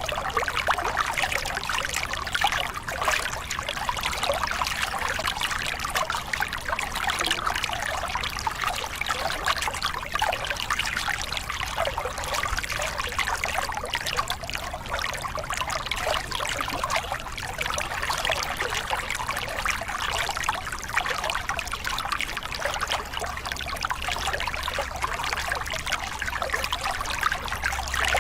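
Small river cascade: water pouring and splashing over rocks in a steady, even rush with fine splashy detail.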